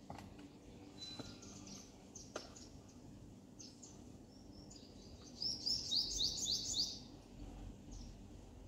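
Birds chirping, with scattered short high calls. The loudest is a quick run of about eight sharp, falling notes about two-thirds of the way through. A faint steady hum lies underneath.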